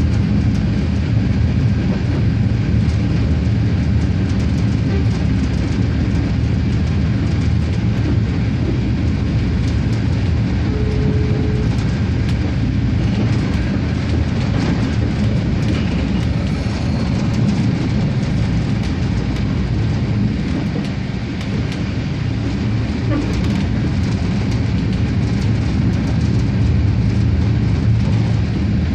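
RegioSprinter diesel railcar running along the line: a steady low drone of engine and rolling wheels on the track.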